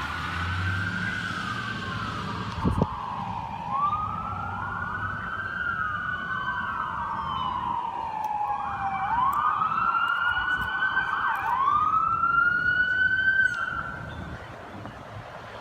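Emergency vehicle sirens wailing: two or more slow rising-and-falling sweeps overlap and grow louder, then cut off shortly before the end. A short thump comes about three seconds in.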